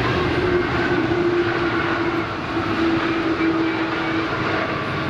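Jet airliner engines running loud and steady as the aircraft passes near the airport, a steady engine tone drifting slightly lower in pitch.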